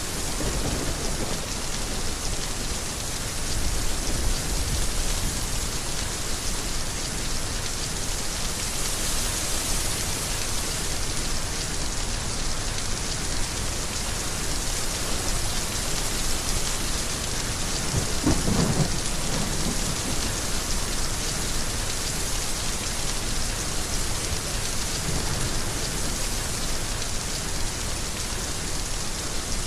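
Heavy rain falling steadily, with low rumbles of thunder a few seconds in and again, stronger, a little past the middle.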